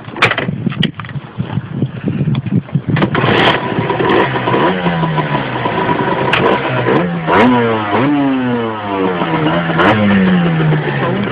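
Yamaha DT50X's 50cc two-stroke engine breathing through a Metrakit carbon exhaust: a few clattering knocks, then it catches and runs about three seconds in. It is then revved up and down several times, the exhaust note rising and falling.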